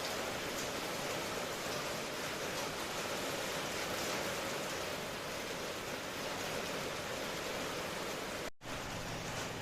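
Steady rain falling, an even, unbroken hiss. It cuts out completely for an instant near the end, then resumes.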